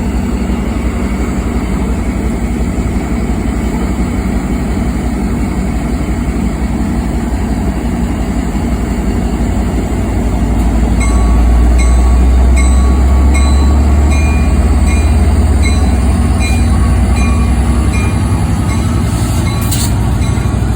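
Train rolling past with a heavy, steady rumble that swells about halfway through. From then on a high ringing tone repeats at an even pace, roughly one and a half times a second.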